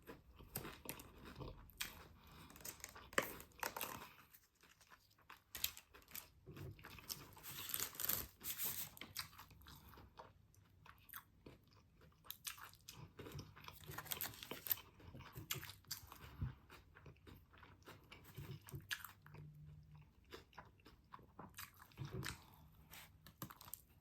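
Close-up mouth sounds of someone eating a chicken tender sub: biting and chewing, with irregular crunching and small clicks throughout.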